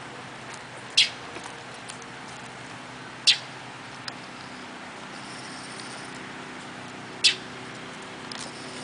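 Baby bird giving three short, sharp, high-pitched peeps, a few seconds apart, over a faint steady hum.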